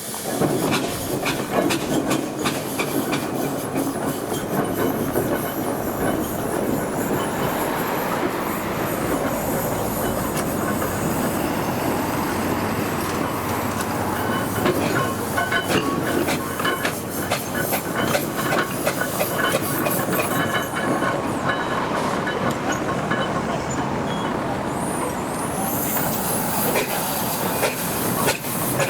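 Steam traction engine on the move along the road, a continuous dense clatter of its steel wheels and gearing.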